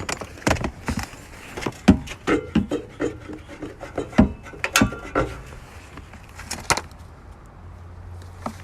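Irregular knocks, clicks and clatter, like hard objects being handled and set down. Near the end they die away and a low steady hum sets in.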